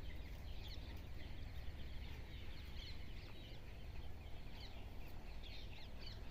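Birds chirping: many short, overlapping calls over a low steady rumble.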